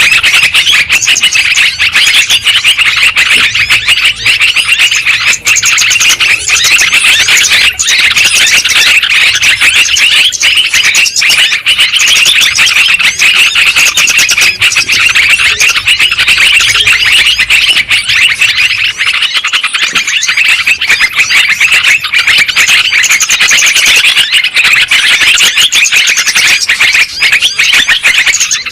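Yellow-vented bulbuls (trucukan) chattering and calling without a break, a loud, dense jumble of chirps and trills from a bird-lure recording.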